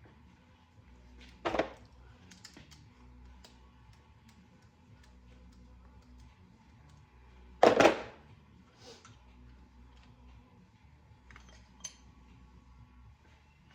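Light clicking and clinking of metal engine parts and hand tools, with two louder clanks, one about a second and a half in and one near the middle.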